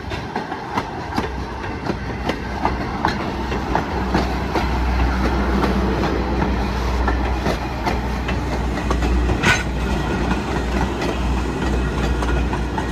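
Railroad cars rolling past, wheels clicking over the rail joints in an irregular clickety-clack over a steady low rumble, with one brief sharper metallic note about nine and a half seconds in.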